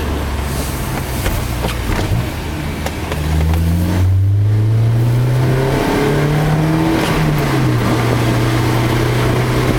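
Car engine under load on a racetrack, heard from inside the cabin: it accelerates with rising pitch and growing loudness from about three seconds in, drops in pitch at a gear change near the middle, then holds steady at speed.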